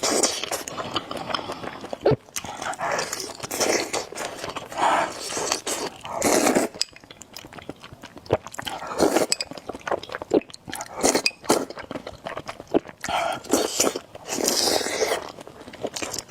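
Close-miked eating: noodles slurped and chewed in repeated short bursts, with sharp clicks of utensils against the bowl.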